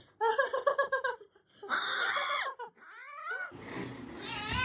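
Cat vocalizing in a run of short high-pitched calls: a quick pulsing string near the start, then longer calls that slide in pitch.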